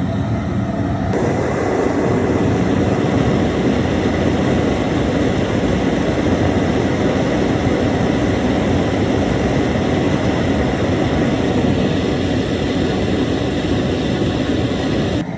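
Outdoor propane burner under a crawfish boil pot, running with a loud, steady rushing sound that steps up about a second in, as the seasoned water is brought to the boil. The sound cuts off abruptly just before the end.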